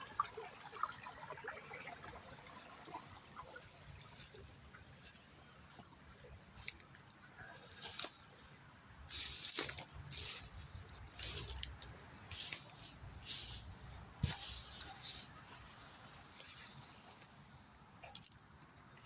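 A late-summer insect chorus gives one continuous, unbroken high-pitched trill. Brief rustling noises are scattered through it.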